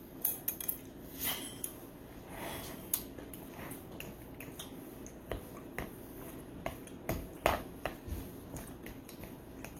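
Someone eating: irregular small clicks and taps, like a utensil on a bowl, with quiet chewing between them.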